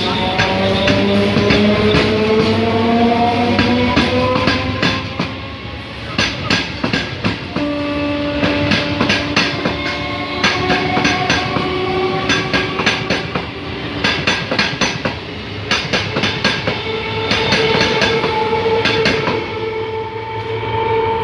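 ICF-built electric multiple unit local train moving through the station: its traction motors whine higher in pitch over the first few seconds as it picks up speed, then hold steadier tones, while the wheels click in a rapid rhythm over the rail joints.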